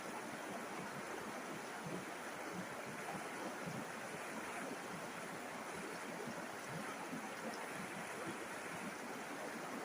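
River water flowing over stones, a steady rushing with small splashes and gurgles through it.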